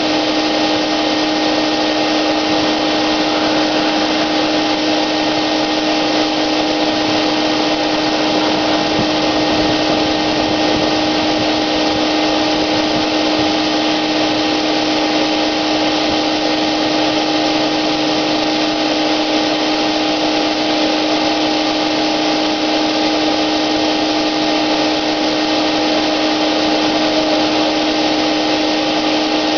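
Wagner paint sprayer running steadily, its motor holding a constant whine over the rush of air through the hose and gun.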